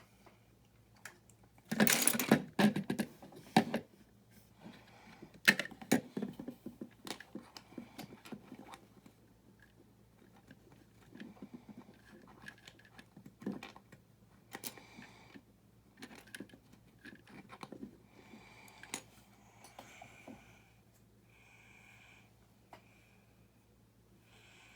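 Small plastic building-brick parts being handled and rattled: a loud burst of rattling clicks about two seconds in, then scattered clicks and light rustling.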